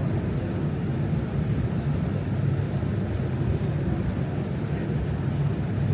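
Steady low rumble of a boat under way, its engine and motion drone continuous and even.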